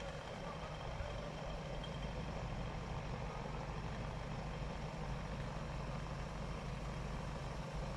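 Heavy vehicle engine running steadily, a low continuous hum, as from a dump truck or tractor working on the site.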